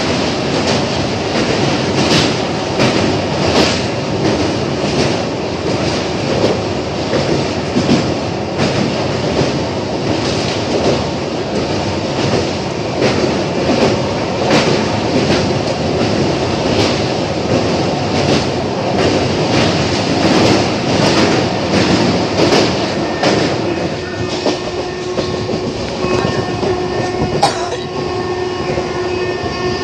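Express train running at speed over a steel truss river bridge, heard from inside the coach: a heavy rumble of wheels on the steel deck with regular clickety-clack over the rail joints. Near the end, as the train leaves the bridge, the rumble eases and a steady whine comes in under it.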